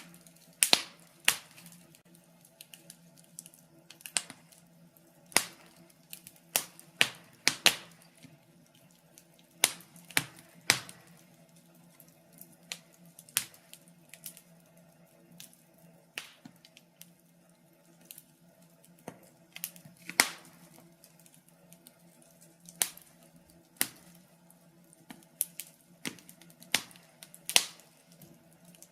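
Wood logs burning in a fireplace, crackling with irregular sharp pops and snaps, some in quick clusters, over a faint steady low hum.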